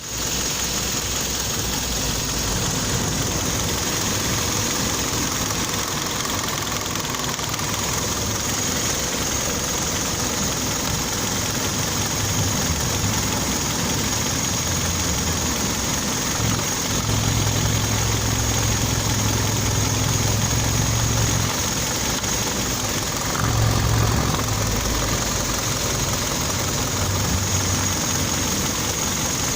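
Kia Optima engine running at idle with a knock, the fault the owner is recording. The low hum strengthens for a few seconds past the middle and briefly again later.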